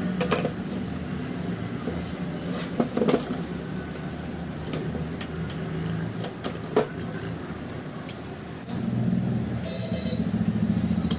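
Steady low engine hum, like passing or idling traffic, with scattered sharp clicks and knocks. The hum grows louder about nine seconds in.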